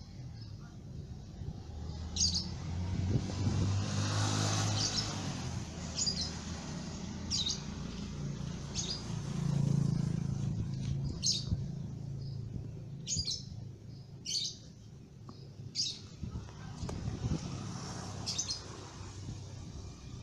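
A bird chirping, short high calls repeated about every one to one and a half seconds, over a low rumble that swells twice.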